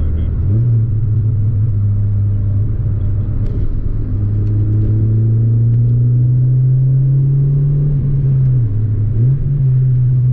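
Rover 216 GTi's Honda-built 1.6-litre four-cylinder engine pulling on the road, heard from inside the cabin. Its revs rise just after the start, then climb slowly and steadily, dip briefly near the end and pick back up.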